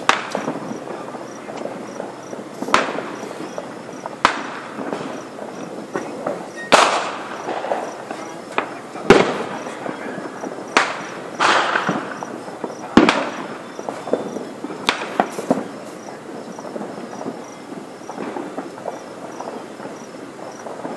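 Aerial fireworks shells bursting overhead: about ten sharp booms spread unevenly through the stretch, several trailing off in a rolling echo.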